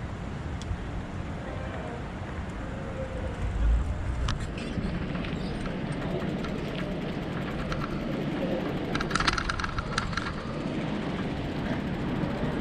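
Riding noise heard through a bicycle-mounted GoPro: a steady low rumble of air and tyre noise. There is a low thump about four seconds in, and a short burst of rattling clicks about nine seconds in.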